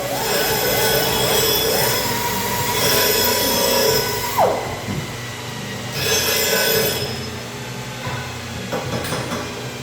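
A power tool working metal: stretches of rough grinding hiss with a high squealing tone, which holds steady and then drops off sharply about four and a half seconds in.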